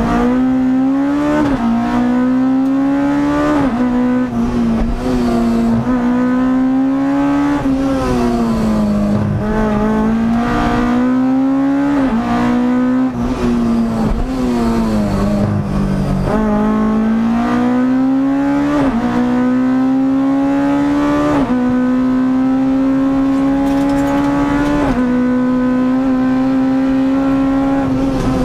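Rally car engine heard from inside the cabin, revving hard up through the gears: the pitch climbs again and again and drops sharply at each gear change. The engine holds a steady high pitch near the end.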